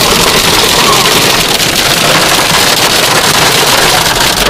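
Heavy rain mixed with small hail pelting down in a storm: a loud, dense, steady patter of many fine ticks, with wind.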